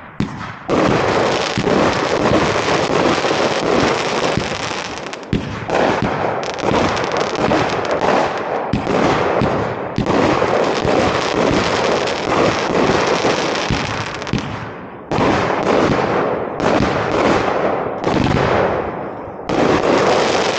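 Bad Omen, a 25-shot 500 g consumer firework cake by OMG Fireworks, firing a rapid run of shots whose launches and bursts blur into a near-continuous rattle and crackle, broken by a few brief gaps.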